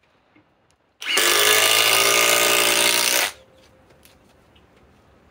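Milwaukee M18 Fuel Gen 4 cordless impact driver hammering a 4-inch Grip-Rite screw in. It starts about a second in, runs steadily at full speed for a little over two seconds, then stops sharply.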